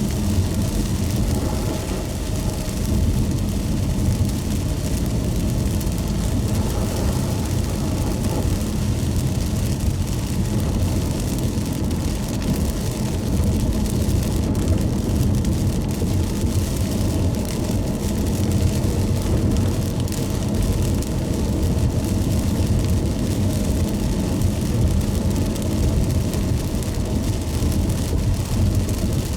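Car driving in the rain: a steady low rumble of road and engine noise with an even hiss of rain and wet road.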